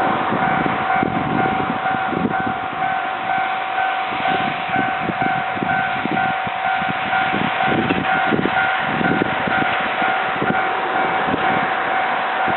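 Isumi Railway diesel express train running, a rumbling rattle under a steady high tone with a pulsing beep about three times a second above it.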